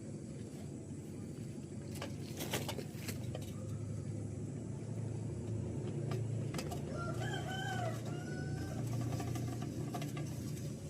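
A rooster crowing once, about seven seconds in, over a steady low hum, with a few sharp clicks about two seconds in.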